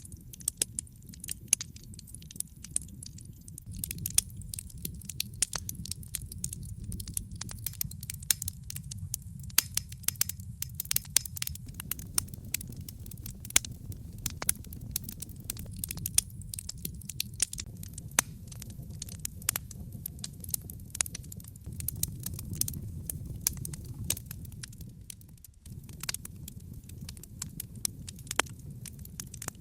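Wood logs burning in a fireplace, crackling with many irregular sharp pops over a low steady rumble of flame. The low rumble dips briefly about 25 seconds in.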